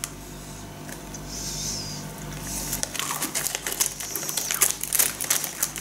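Dry, crisp waffle biscuit being crunched and chewed close to the microphone: a quiet stretch, then from about three seconds in a quick run of small crunching clicks.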